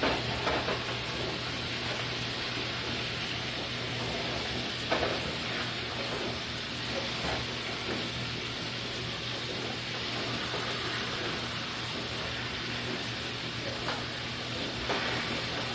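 Hamburger patties sizzling steadily as they brown in a frying pan, with a few light scrapes and taps of a metal spatula against the pan. A steady low hum runs underneath.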